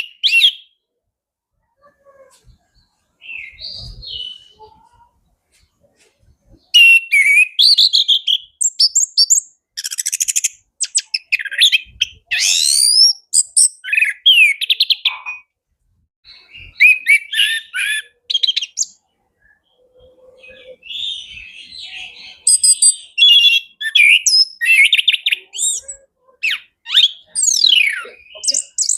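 Chestnut-capped thrush (anis kembang) singing a fast, varied, high-pitched song of whistles, trills and sweeping notes. It comes in dense bursts separated by short pauses, after a quieter start of about six seconds.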